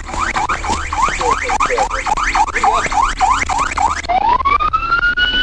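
Police car siren on yelp, fast rising whoops about three a second, switching about four seconds in to a slow rising wail that holds high.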